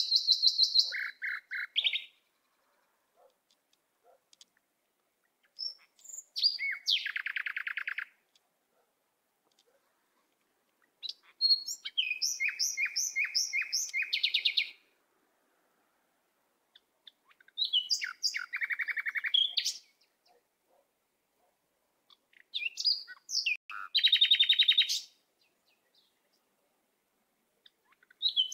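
A songbird singing in five short phrases spaced about five to six seconds apart. Each phrase is a few high chirps running into a fast, even trill.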